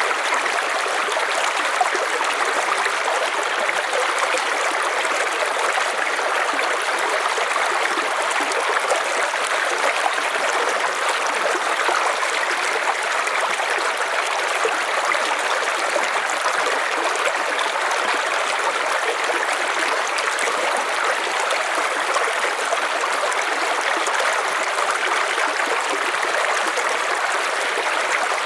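River water flowing and splashing over stones, a steady rushing.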